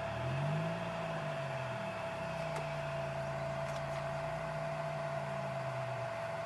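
2002 Chevy Malibu engine idling with the air conditioning on; the idle speed rises about half a second in, then settles to a steady pitch. A constant higher hum runs alongside.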